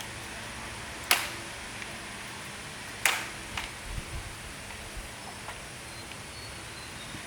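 Two sharp knocks about two seconds apart, then a few lighter taps and clicks, over a steady background hiss.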